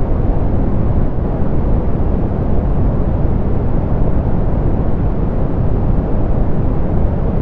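Steady soft pink noise: an even, unchanging hiss weighted toward the low end and rolled off in the highs.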